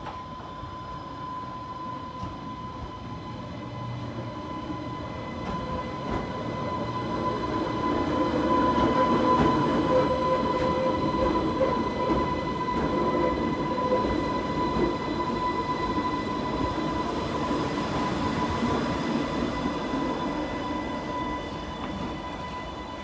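Vivarail Class 484 electric multiple unit arriving and running slowly past along the platform. Its running noise grows to its loudest about nine to twelve seconds in as the cars go by close, then eases as the train slows to a stop. A steady high-pitched tone sounds throughout.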